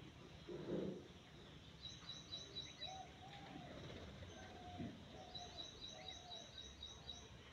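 Faint outdoor bird calls: two quick runs of high chirps, about four or five a second, over low background noise. A short, soft low thump is heard about half a second in.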